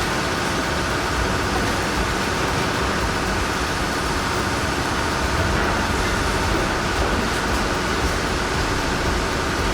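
Heavy machinery running: a steady, even rumble and hiss with no breaks or changes.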